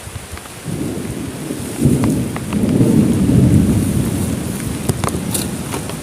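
Thunder rumbling over steady heavy rain: the rumble comes in just under a second in, swells to its loudest around the middle and slowly dies away, with scattered raindrops ticking throughout.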